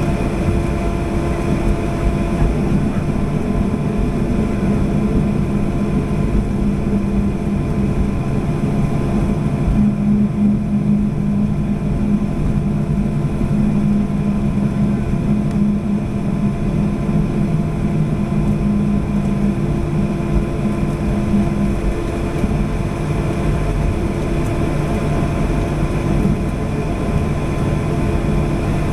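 Steady engine hum and rumble in an airliner cabin, with the engines at low power as the plane taxis. A low hum shifts slightly in pitch and fades out about three quarters of the way through.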